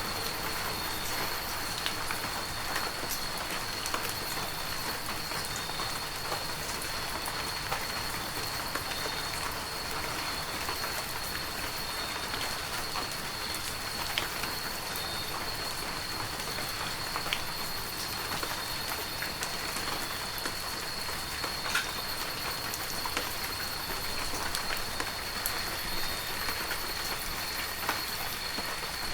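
Heavy rain falling steadily, with scattered sharp drops striking close by and a faint steady high tone running underneath.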